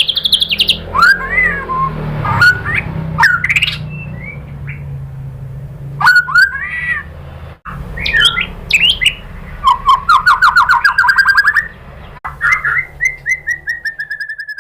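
White-rumped shama singing a varied song of whistled glides, harsh notes and a fast rattling trill, ending on a long falling whistle that begins to fade out near the end.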